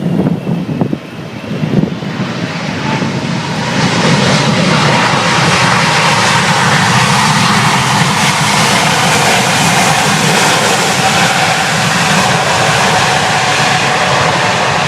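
Jet airliner's engines building over the first few seconds to a loud, steady noise with a whine that slowly drops in pitch as the aircraft passes. Gusty wind buffets the microphone at the start.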